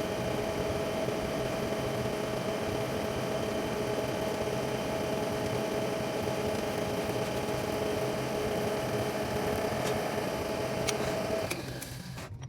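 Metal lathe running steadily, a machine hum with a constant whine, which winds down about eleven seconds in.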